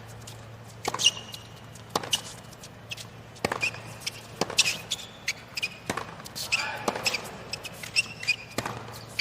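Tennis rally on a hard court: sharp racket strikes and ball bounces about a second apart, with the players' shoes squeaking on the court.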